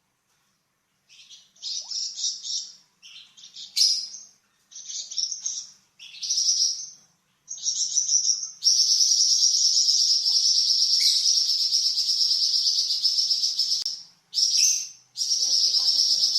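Flamboyan songbird singing: a few short, high chattering phrases, then a long, dense, buzzy rattling trill held for about five seconds. After a brief pause, another long trill starts near the end. This is the long 'nyecret' chatter the bird is kept for.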